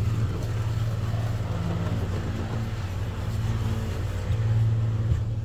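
Steady low mechanical hum with a few fainter pitched lines above it, heard from inside a car sitting in an automatic car wash bay.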